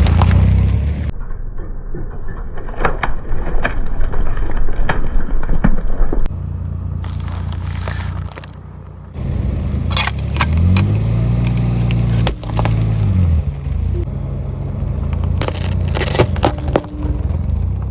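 Car tyres rolling over plastic lighters and crushing them, giving many sharp cracks and snaps over the low hum of the car's engine. About halfway through, the engine note rises and falls once.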